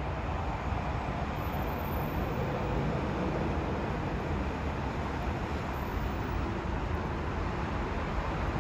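Electric commuter train running out along the platform track: a steady rumbling noise with no clear tones.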